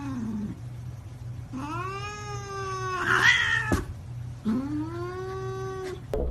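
A domestic cat yowling: two long drawn-out calls, each rising at the start and then held level.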